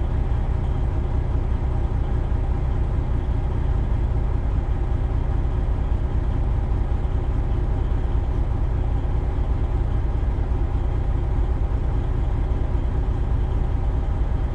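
Semi-truck diesel engine idling steadily, heard from inside the cab with a deep, even low rumble.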